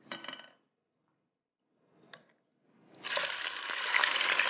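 A brief faint clink of utensils, then about three seconds in, chicken pieces start sizzling and crackling in hot oil in a wok as a spatula turns them.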